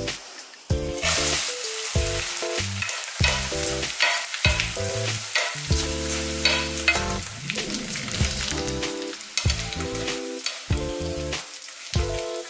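Small dried anchovies frying in plenty of hot oil in a pan. The sizzle jumps up about a second in as they go into the oil, then keeps going while they are stirred with a wooden spatula and chopsticks, with light clicks against the pan. The oil is hot enough to crisp them as if deep-frying.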